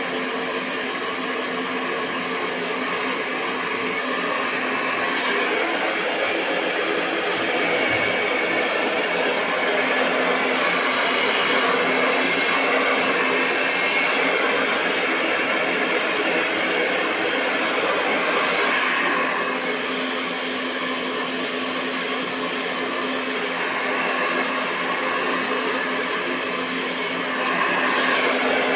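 Hair dryer (phon) running continuously: a steady rush of blown air over a constant motor hum, swelling slightly in loudness now and then.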